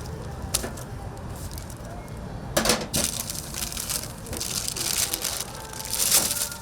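Oak wood fire crackling with a dense run of pops and hiss, with two louder rushes of noise about two and a half and six seconds in.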